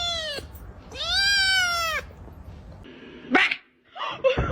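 A cat meowing: two long, drawn-out meows, each rising and then falling in pitch. A short, sharp noisy burst follows about three seconds in, and another comes near the end.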